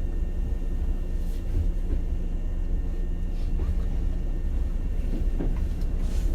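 Hankyu 7000 series electric train running, heard inside the passenger car: a steady low rumble of wheels on rail with a faint even hum.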